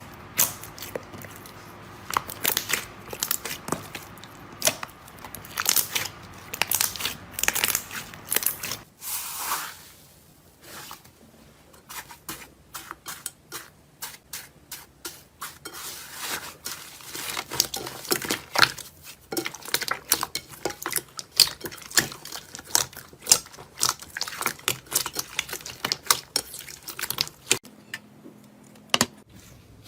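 Crunchy material being crushed and crumpled, a dense run of crisp crackles and crunches. About nine seconds in it changes to a quieter run of separate sharp crunches that come thicker and louder later on.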